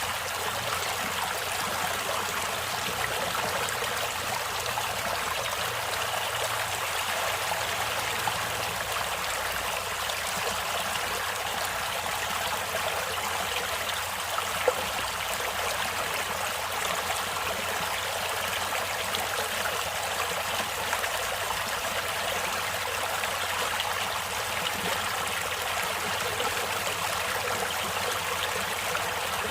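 Running water of a natural stream, a steady rushing and trickling that does not change. There is one brief click about halfway through.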